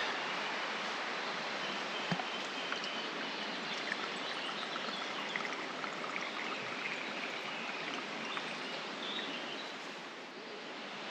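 Steady rushing of flowing water from a stream, with faint bird chirps and a single sharp knock about two seconds in.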